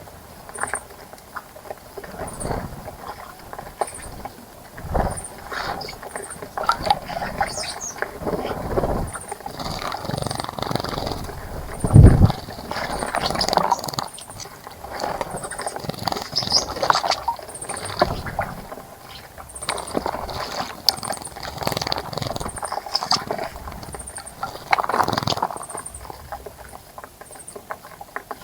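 Birds splashing in a bird bath: irregular bursts of splashing water and fluttering, with one loud low thump about twelve seconds in. A short, high chirp keeps repeating about once a second.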